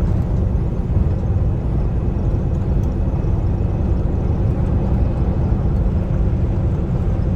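Kenworth T680 semi truck running at highway speed: a steady low rumble of engine and road noise.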